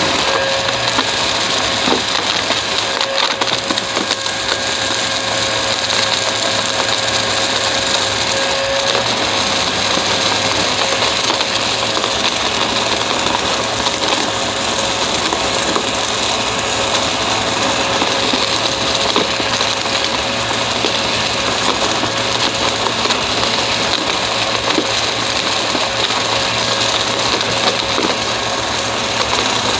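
Upright vacuum cleaner running steadily with a constant whine, crackling with many small ticks as it sucks up crunchy debris.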